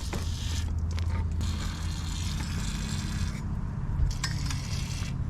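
WD-40 aerosol can spraying penetrating oil onto rusted-shut exhaust bolts in one long hiss that stops about three and a half seconds in, followed by a couple of light clicks.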